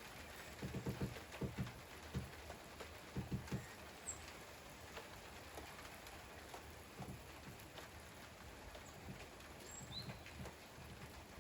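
Steady rain falling, with heavier drips landing close by in irregular clusters of soft low taps.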